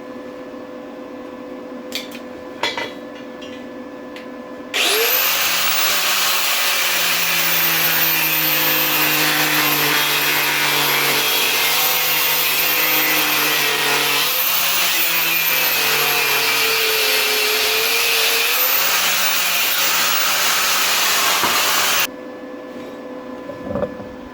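Power tool, most likely an angle grinder with a cutting disc, starting about five seconds in and cutting through steel for about seventeen seconds. Its pitch dips and recovers as the disc is loaded, and the sound cuts off suddenly near the end. A few light metal knocks come before it starts.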